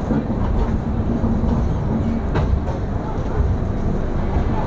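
LHB passenger coach rolling slowly out of a station: a steady low rumble of wheels on track, heard at the open coach door.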